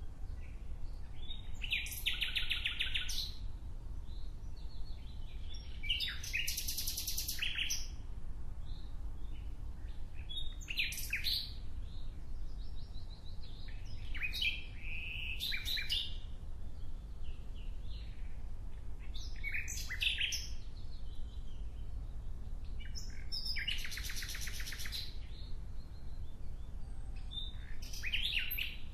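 A songbird singing short, fast trilled phrases of one to two seconds, repeated about every four seconds, over a steady low rumble.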